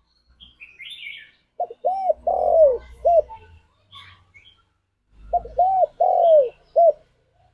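Spotted dove (tekukur) cooing: two phrases of four notes each, a short note, an arched note, a longer falling note and a short closing note, about three and a half seconds apart. Faint, higher chirps come near the start and between the phrases.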